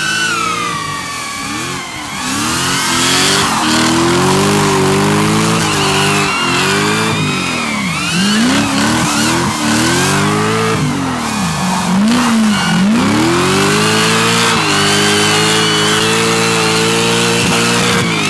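Drift car engine revving hard, its pitch sweeping up and down again and again with sharp drops between pulls, then held high for the last few seconds. A higher wavering whine runs above it.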